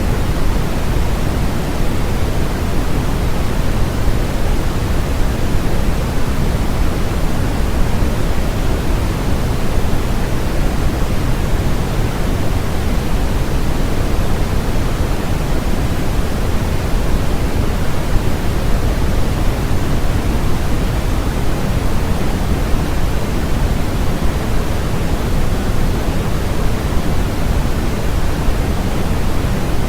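Steady, unbroken electronically generated noise, a constant hiss with more weight in the low end than the highs, with no change over time.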